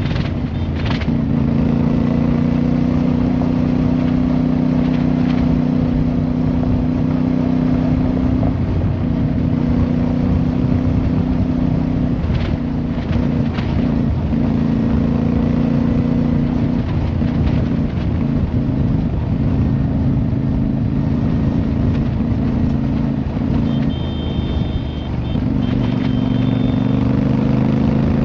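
Motorcycle engine running steadily under way, its pitch shifting slightly with the throttle and rising near the end.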